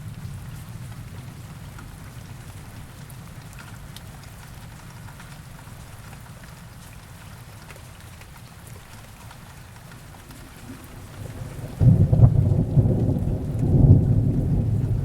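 Heavy rain falling steadily, with a rumble of thunder breaking in suddenly about twelve seconds in and rolling on, much louder than the rain.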